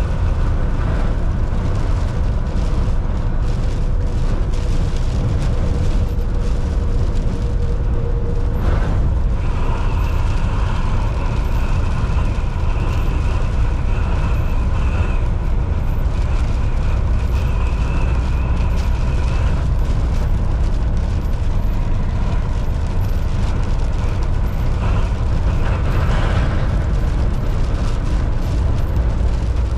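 Volvo VNL 760 semi truck driving: a steady, deep engine and road rumble without let-up, with a faint whine that steps up in pitch about nine seconds in.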